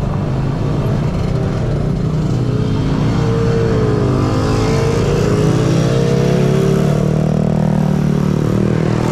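Motorcycle engine running while being ridden, a steady low hum with its pitch dipping and then rising again midway as the throttle changes.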